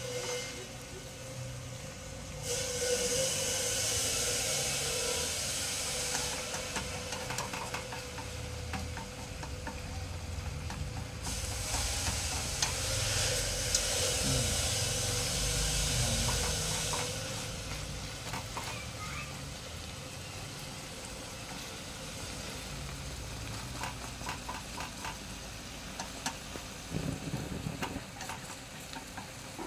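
Fermented snakehead fish fillets deep-frying in bubbling oil in a small wok, a steady sizzle that grows louder in two stretches, about three to six seconds in and again about eleven to seventeen seconds in. A faint steady hum runs underneath.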